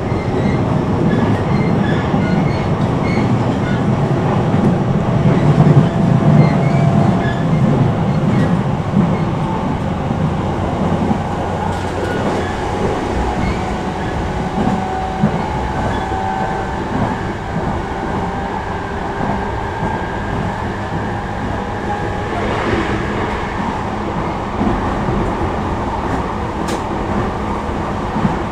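Inside a JR East E233 series 5000 electric train running at speed: a steady rumble of the wheels on the rails, louder a few seconds in, with a faint steady whine.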